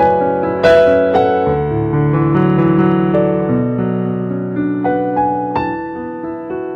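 Piano playing slow, held chords, with only a few new notes struck and left to ring.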